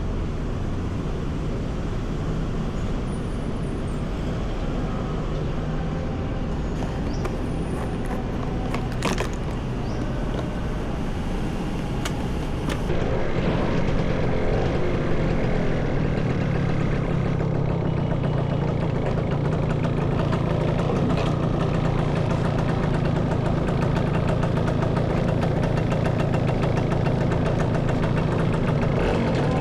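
Motorcycle engine running amid street traffic. A little under halfway through it grows louder, settling into a steady low drone as the bike gets moving.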